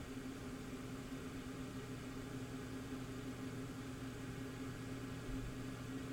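A faint, steady low hum with a constant hiss over it, like a small motor or appliance running.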